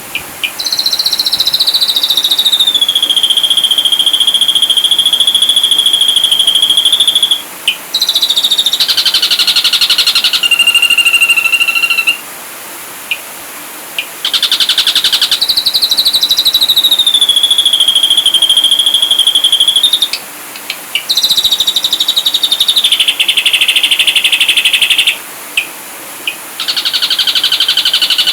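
Ashy drongo singing: long drawn whistles that slide down in pitch and hold, alternating with rapid rattling trills, in phrases repeated several times with short pauses between.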